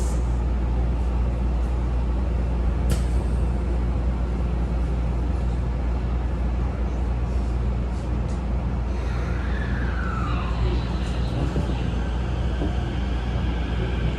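Inside a Tokyo Metro 15000 series subway car: a steady low hum from the standing train and a sharp click about three seconds in. From about nine seconds in the train pulls away, with a gliding electronic tone and then the rising whine of its traction motors as it starts to accelerate.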